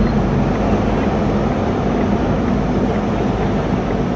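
Semi-truck's diesel engine running steadily with a constant low hum while the truck is backed up to a loading dock door.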